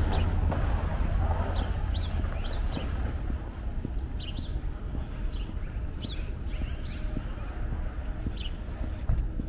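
Small birds chirping in short, sharp calls, several times a second in clusters, over a low rumble that eases after about three seconds.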